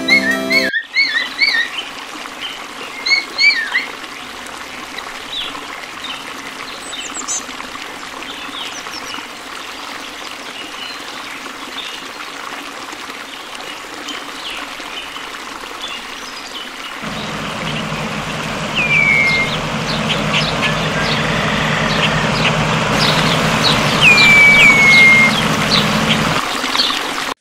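Small birds chirping and calling over a steady rushing hiss. About two-thirds of the way through a low drone joins in, and two clear down-slurred whistles sound a few seconds apart.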